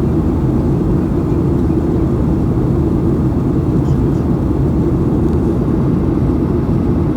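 Steady in-flight cabin noise of a Boeing 737-800, heard from inside the cabin: an even, low rumble of its CFM56-7B engines and the rushing airflow, without change.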